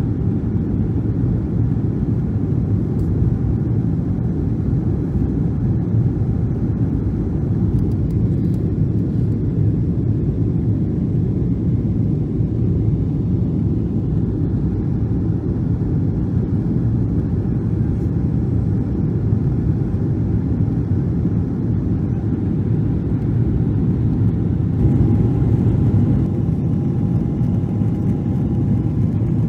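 Boeing 777-300 cabin noise in flight: the jet engines and airflow make a steady, loud low rumble. A faint steady whine comes up near the end.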